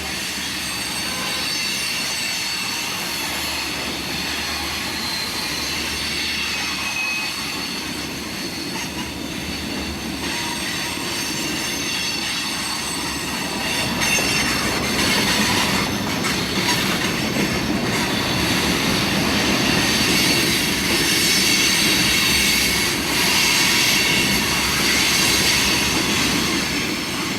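Wheels of loaded freight hopper cars squealing loudly as they grind around a sharp curve, several high squealing tones over the rolling rumble of the train, growing louder about halfway through. The squeal comes from the wheels forced around the tight turning radius.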